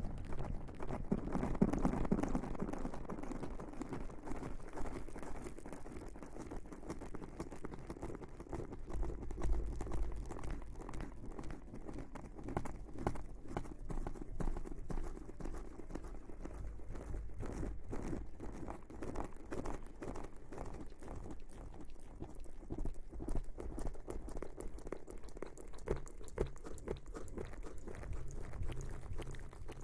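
Close-miked ASMR rustling: a dense, continuous run of soft crackles and clicks.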